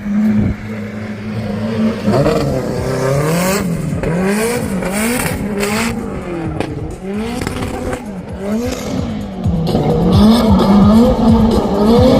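A drift car's engine revving up and down over and over, about once a second, with bursts of tyre squeal and hiss.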